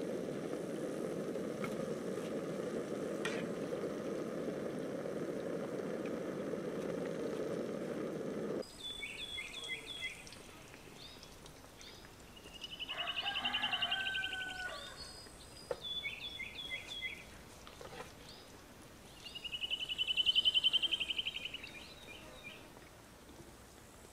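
A steady low rushing noise cuts off abruptly about eight or nine seconds in. Songbirds follow, singing short, repeated falling notes. Two loud buzzing trills each swell and fade over about two seconds.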